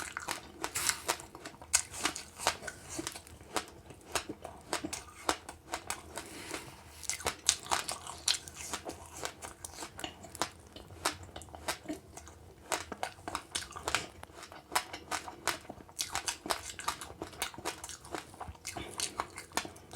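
Close-up crunching and chewing of passionfruit pulp with its hard seeds: many sharp, irregular crackles as the seeds are bitten.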